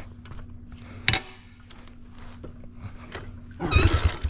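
A dog barking loudly near the end, after a quiet stretch with a faint steady hum and a single sharp click about a second in.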